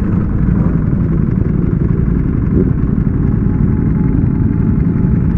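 Ducati Panigale V4S motorcycle riding along, its engine running under a steady rush of wind on the on-board microphone.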